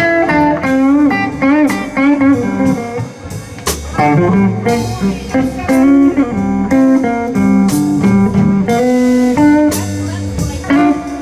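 Live blues band playing an instrumental break: a bending electric guitar lead over bass and drums.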